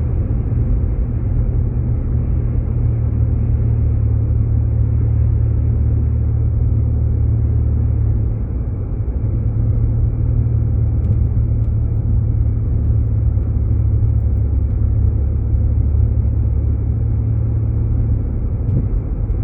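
Steady low rumble of a Jeep Grand Cherokee's engine and tyres heard from inside the cabin while driving, easing briefly about halfway through.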